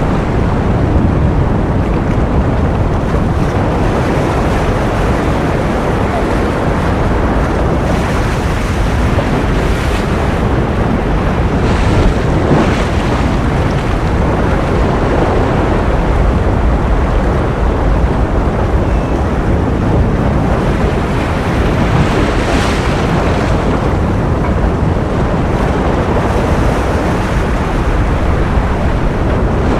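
Ocean surf: a continuous wash of waves with a deep rumble, swelling slightly a few times.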